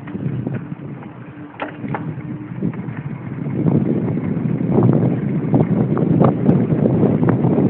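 Wind buffeting the microphone while riding a mountain bike, a dense low rumble with scattered clicks and rattles, getting louder from about halfway through.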